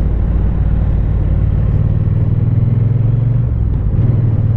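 Triumph Bonneville's parallel-twin engine running steadily while the motorcycle is ridden at road speed, over an even rush of noise.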